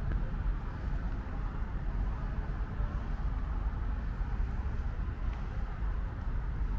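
Steady outdoor ambience of light rain with a low, continuous rumble of road traffic underneath.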